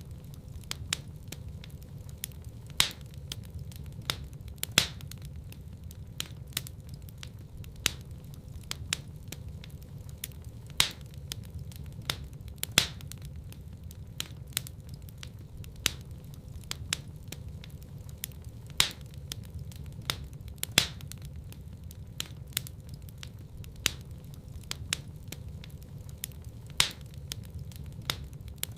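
Wood fire burning in a fireplace: a steady low rumble of flames under constant crackling, with sharper, louder pops every few seconds. The louder pops come in pairs about two seconds apart, a pattern that recurs about every eight seconds, as in a looped recording.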